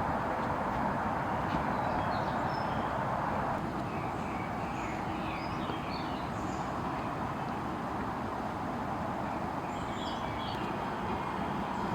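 Small birds chirping and twittering in a forest, in scattered bursts of short high calls, over a steady rushing background noise.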